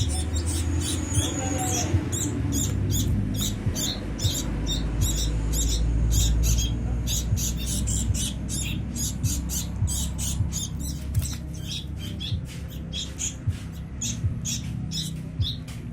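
Sooty-headed bulbul nestlings begging to be fed: a continuous run of short, high cheeps, about four a second, over a low rumble.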